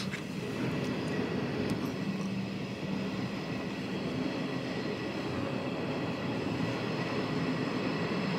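Steady running noise of a moving train heard from inside a sleeper carriage, an even rumble with a low hum.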